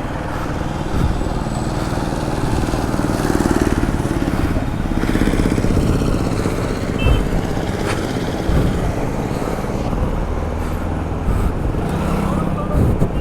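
Road traffic: motorcycles and other vehicles passing with their engines running, a steady mix of engine noise that swells and fades as they go by.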